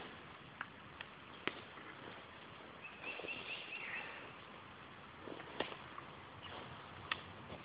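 Faint outdoor woodland ambience. About three seconds in, a bird calls a quick run of short, high repeated notes. Scattered light clicks and snaps come through the rest.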